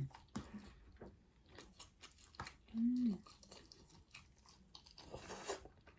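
Close-miked chewing of chicken, with wet smacking and many short mouth clicks. A brief hum of the voice about three seconds in.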